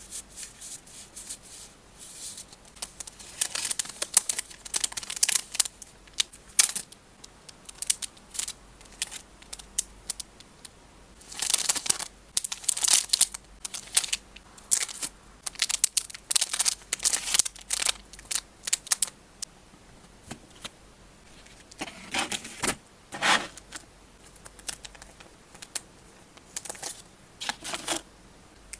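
Photocards and their plastic sleeves and packing materials handled up close: irregular crinkles, rustles, light taps and clicks in quick clusters with short pauses, over a faint low hum of recording noise.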